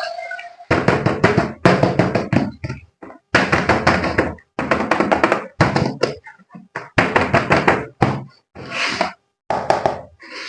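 Clusters of rapid knocking and tapping, each lasting under a second, separated by short silences.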